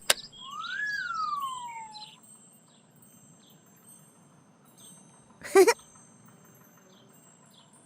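Cartoon sound effects: a click, then a whistle-like tone that rises and falls under twinkling chimes, and a short loud swoosh about five and a half seconds in. Faint chirps sound in between.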